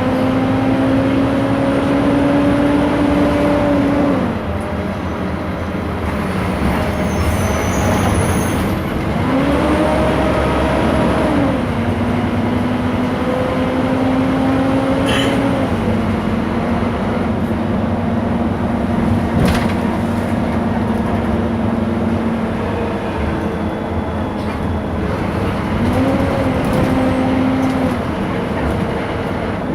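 Scania K230 city bus with a ZF automatic gearbox running under way. A steady drivetrain whine climbs slowly and drops away about four seconds in. It then rises and falls again twice as the bus speeds up and slows, over a constant engine and road noise. A couple of short clicks sound in the middle.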